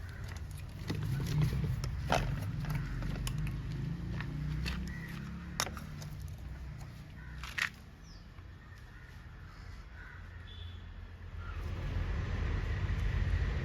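Fresh engine oil being poured into the oil filler of a Honda Unicorn's engine, over a steady low rumble, with a few sharp clicks of the bottle and filler cap being handled.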